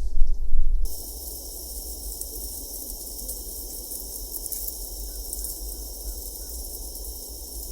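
Outdoor ambience of insects droning steadily at a high pitch, with a few faint bird chirps about two-thirds of the way through. A louder low rumble cuts off abruptly about a second in.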